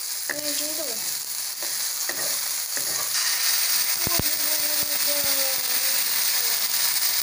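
Hot oil sizzling in a nonstick wok as sliced shallots, garlic and chili are stir-fried with a wooden spatula. About three seconds in, the sizzle turns louder and hissier, with steam rising, as a red chili paste goes into the hot oil, and a few short knocks follow.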